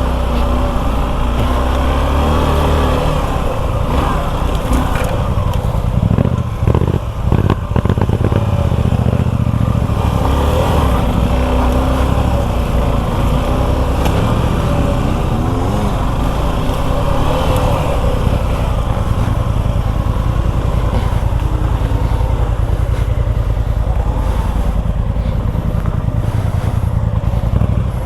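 Suzuki V-Strom 250 SX's single-cylinder engine running at low, varying revs as it works up a rough off-road trail, with a few knocks from the bike about six to eight seconds in.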